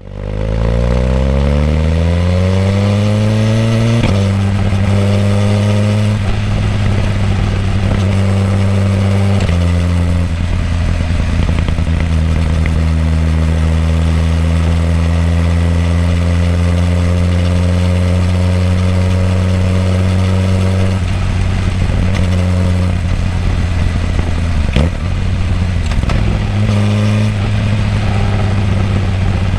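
Suzuki GSX-R1000R's inline-four engine through its stock muffler, heard close to the exhaust. The revs climb over the first few seconds, then the engine holds steady notes that step up and down in pitch several times.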